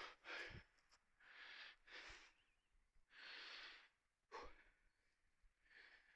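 Faint breathing close to the microphone: a series of soft breaths, about one a second, with a short sharper rustle near the middle.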